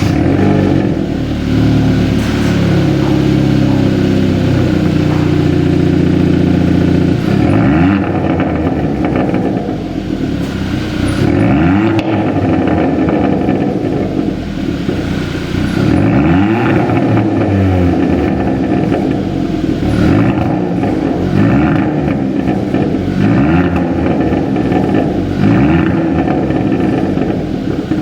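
Hyundai Tucson's exhaust through a Veloster N Performance exhaust system, with the active sound booster switched off: the engine idles steadily, then from about seven seconds in is revved up and let fall back again and again.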